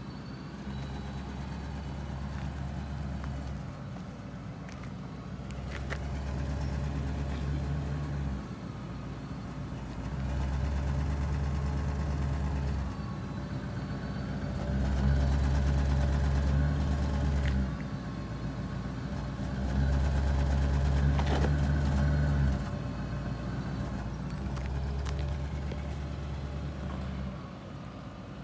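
Car engine running, revved up about six times for a few seconds each and falling back to idle in between.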